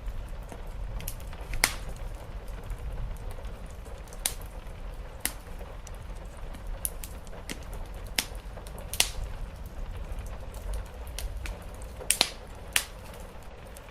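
Wood fire crackling: irregular sharp pops and snaps, a second or so apart, with a close pair of louder pops near the end, over a steady low rumble.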